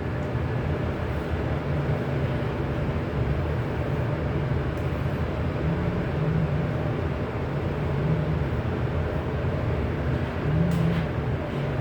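Steady low mechanical rumble, like a running engine or vehicle, with a few faint clicks.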